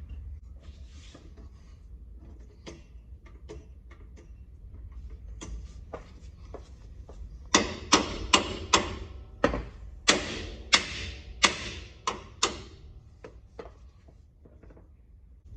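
A hammer striking a heavy part about ten times in quick succession, each blow sharp and ringing briefly. Lighter knocks and clanks come before and after the run.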